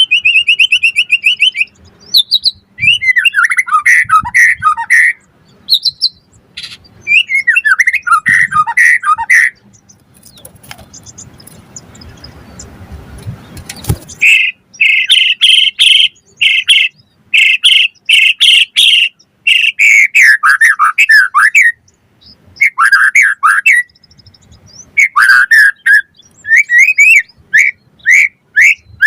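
White-rumped shama singing a loud, varied song of rapid trills, whistles and harsh notes in phrases separated by short pauses. For about four seconds in the middle, a hiss swells and then cuts off suddenly.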